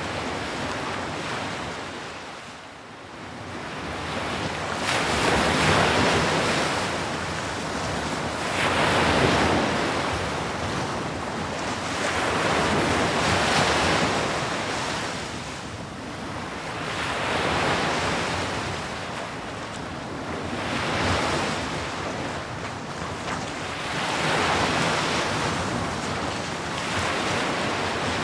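Sea waves breaking on a shore, each wave a rushing swell that rises and fades, roughly one every four seconds.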